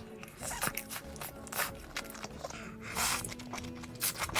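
Close-miked eating sounds: a string of irregular crisp crackles and smacks of chewing, over soft background music.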